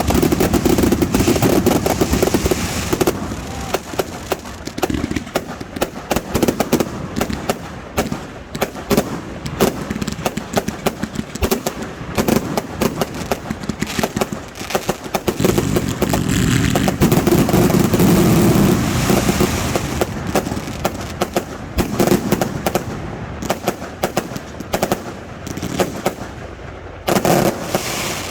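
Aerial fireworks barrage: a dense rapid string of sharp reports and crackle, with heavier booms swelling near the start and again about halfway through, cutting off sharply at the end.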